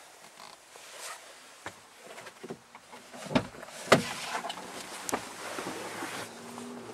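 Pickup truck door being handled: scattered clicks, then two loud clunks about three and a half and four seconds in, followed by a steady background hiss.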